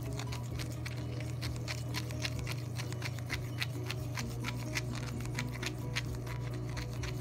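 A spoon stirring a thick, sticky mix of salt and body wash in a plastic lid, making rapid, irregular clicking ticks, over a steady low hum.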